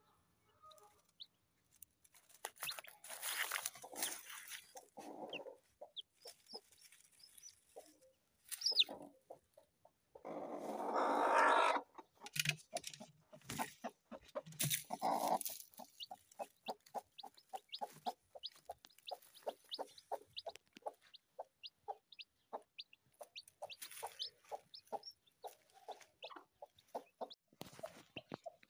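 Chickens clucking, with a louder call about ten seconds in, among many short light clicks and taps.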